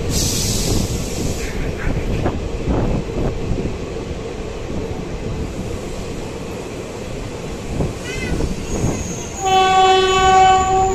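Running noise of a passenger train heard from an open coach doorway: a steady rumble with wheel clatter over the rails. Near the end a locomotive horn sounds one steady blast of about a second and a half.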